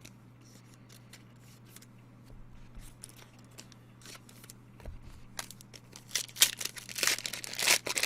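Trading card pack wrapper being torn open and crinkled, in a cluster of loud crackling rustles near the end, after a few faint clicks of cards being handled over a steady low electrical hum.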